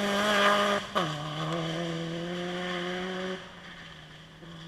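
A car engine pulling hard under acceleration, its pitch climbing. About a second in there is a sharp crack as it shifts up and the note drops, then it climbs again until the throttle is lifted near the end and the sound falls away to a quieter steady note.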